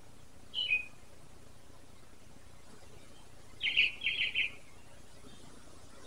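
Bird calls: a short chirp that drops in pitch about half a second in, then a quick chattering run of several notes near the middle.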